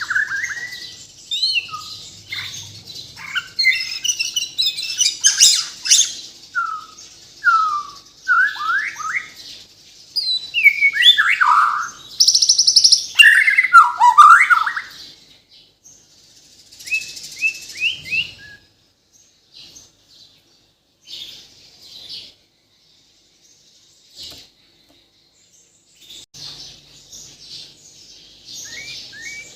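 Bornean murai batu (shama) singing a rich, varied song of quick rising and falling whistles and chirps, packed with learned phrases. The song is dense for the first eighteen seconds or so, then breaks into short scattered phrases with pauses between them.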